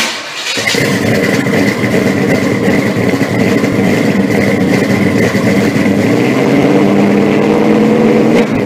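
A car engine running loud and steady, starting abruptly.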